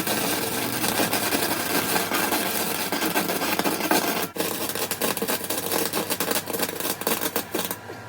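Flux-core wire welder arc crackling steadily as a bead is laid on 40x40 steel box section, with a brief break about four seconds in and stopping near the end. The welder is set too hot, frying the flux core and melting into the steel.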